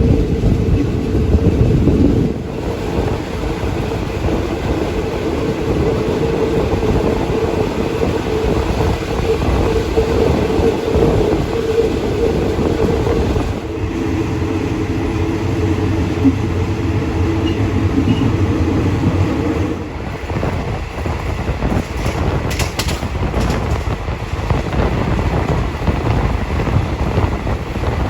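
Moving passenger train heard from on board, running at speed: a steady rumble of wheels on rail with a held hum that shifts to a lower pitch about halfway through and drops away about twenty seconds in.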